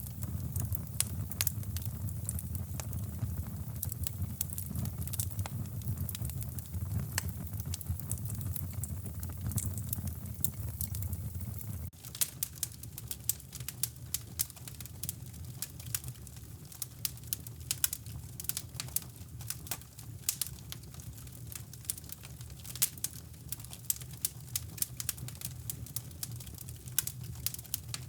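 Wood fire crackling in a fireplace, with many sharp pops and snaps over a steady low brown-noise rumble. The rumble drops a little about twelve seconds in.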